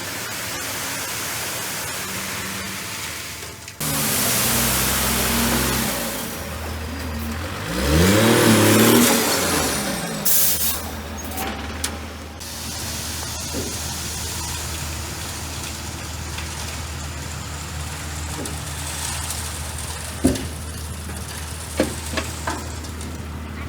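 Bulldozer's diesel engine running steadily, with the engine speed rising and falling about eight seconds in, the loudest part. A few sharp knocks come near the end.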